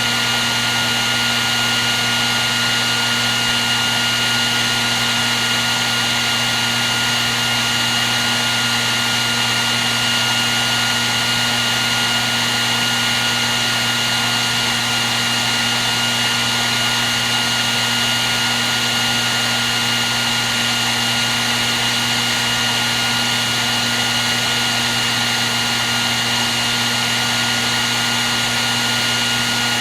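Hair dryer running steadily: an even rush of blown air with a constant motor whine, unchanging throughout.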